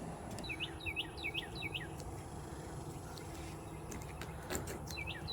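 A bird chirping: a quick run of about six short, falling chirps, then another run near the end, over a low steady outdoor rumble.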